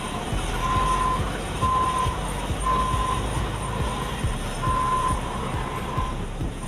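Back-up alarm of heavy road-paving equipment beeping about once a second as the machine reverses, over the low rumble of diesel engines.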